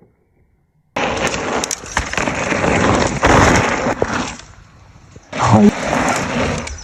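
Mountain bike ridden fast on a dirt trail: tyres rushing over the ground with clicks and rattles from the bike. It starts suddenly about a second in, drops away briefly past the middle, then comes back loud.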